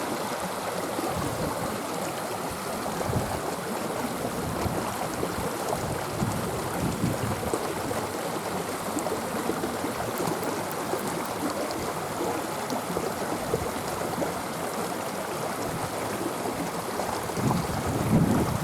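Small stream running steadily over rocks, an even rushing of water. A brief louder low sound comes near the end.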